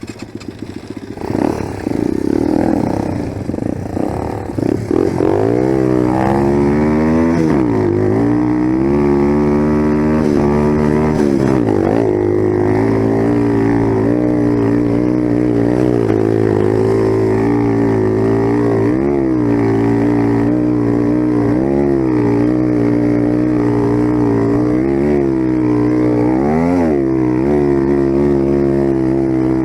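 Dirt bike engine running hard. It is uneven for the first few seconds, then pulls away loud about five seconds in. Its pitch dips and climbs back several times as the throttle is rolled off and on.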